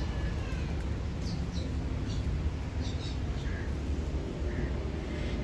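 Birds calling in short bursts several times, over a steady low rumble.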